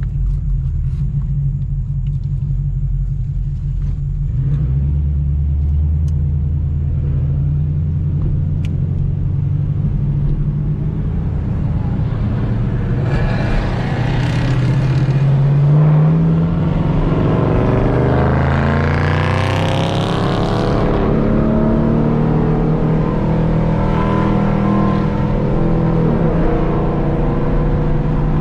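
Chevrolet Camaro SS V8 heard from inside the cabin, running with a steady low rumble. About halfway through, the engine note climbs as the car accelerates, with a whine rising high in pitch, before settling back to a steady cruise.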